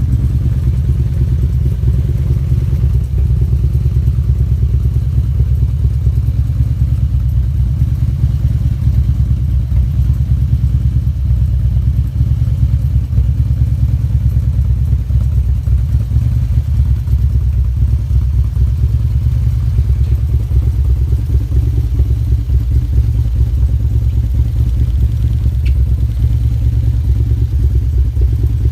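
Harley-Davidson V-twin engine idling steadily with a fast, even low pulsing, left running to warm up.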